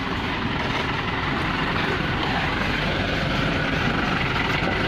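Diesel engine of a Mitsubishi Colt Diesel dump truck running steadily, growing slightly louder.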